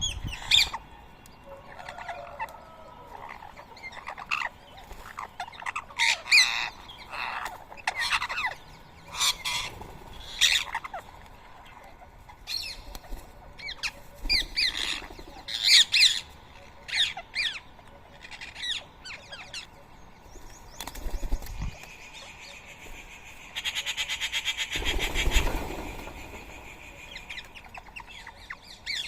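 Rose-ringed parakeets giving repeated short, harsh screeching calls, with a longer rapid rattling burst near the end.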